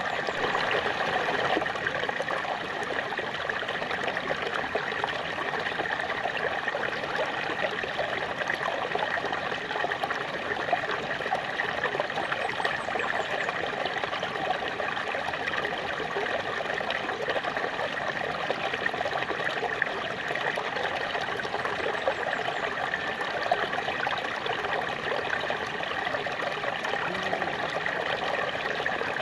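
Small waterfall splashing and trickling steadily, water falling over rocks into a stream.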